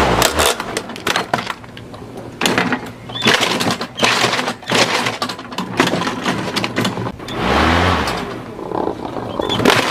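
Running lawnmower chewing up plastic toys: a steady engine hum broken by about eight sharp cracking, shredding bursts as pieces are hit by the blade.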